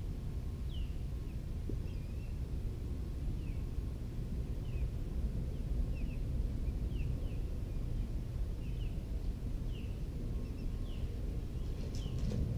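Outdoor field ambience: a low steady rumble with a small bird repeatedly giving short, falling chirps, about one or two a second. A few sharp clicks come near the end.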